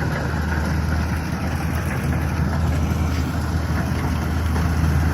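Kubota rice combine harvester's diesel engine running steadily: a constant low drone with machinery noise over it.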